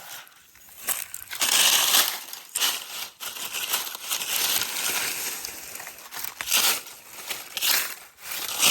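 Dry leaf litter crunching and crackling as it is pushed through and disturbed, in irregular bursts, loudest about a second and a half in.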